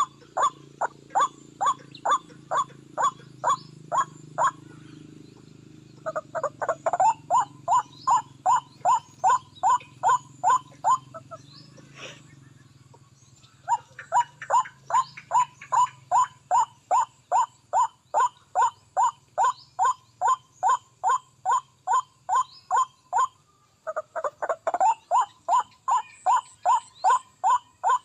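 White-breasted waterhen calling: a loud, short call repeated about twice a second in long bouts, with brief pauses between the bouts.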